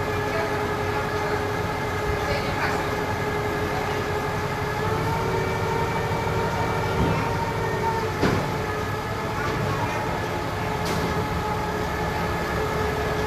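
A 5-ton forklift's engine running steadily while lifting a heavy load, a continuous hum whose pitch shifts about five seconds in. A few sharp knocks sound over it, the loudest about eight seconds in.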